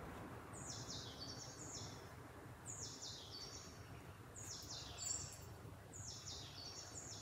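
A songbird singing a short high phrase of stepped notes that falls in pitch, repeated over and over about once a second, over a faint low rustle of fabric being handled.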